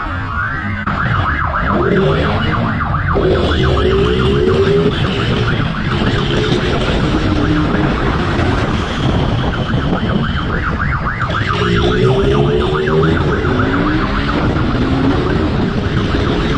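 An emergency vehicle's siren sounds in short repeated sweeps of pitch, over loud, steady road and wind noise from the chase.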